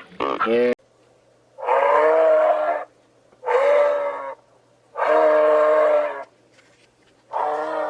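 Cow mooing: four calls of about a second each, evenly spaced and steady in pitch.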